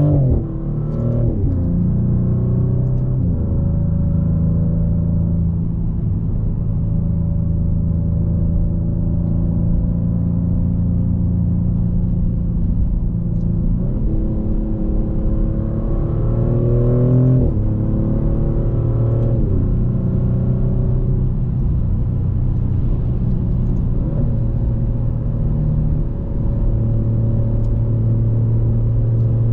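Twin-turbo 3.0-litre Nettuno V6 of a 2024 Maserati GranTurismo Modena running under steady cruise for most of the time. About halfway through the car pulls harder: the engine note rises twice, dropping sharply each time as the automatic gearbox shifts up.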